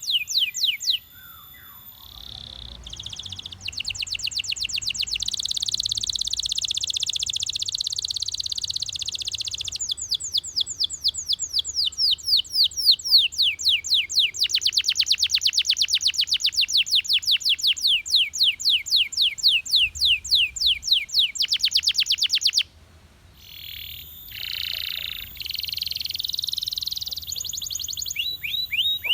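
Belgian canary singing a long song of fast trills, each a run of quickly repeated notes at a different speed and pitch. It breaks off briefly about three-quarters of the way through, then starts again.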